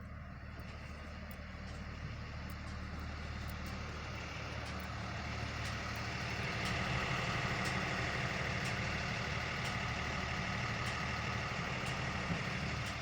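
Heavy vehicle engine idling steadily close by, growing louder about halfway through as a higher hum joins the low drone.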